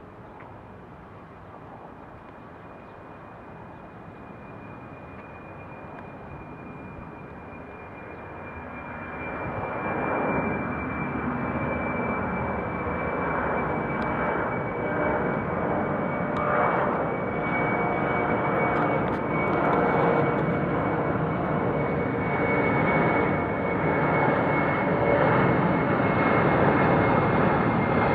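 Departing jet airliner's engines: a steady high whine over a broad rushing roar, which grows sharply louder about a third of the way in and keeps building as the plane powers up for takeoff.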